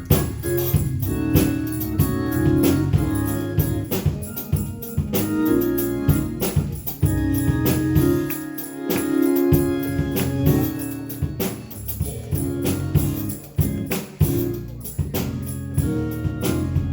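Instrumental church music: sustained keyboard chords over a steady drum beat.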